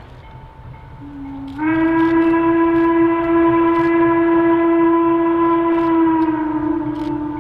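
Steam locomotive whistle on Western Maryland 1309 sounding one long blast of about six seconds. It starts faintly at a lower pitch, steps up as the valve opens fully, and sags back down in pitch near the end as it closes.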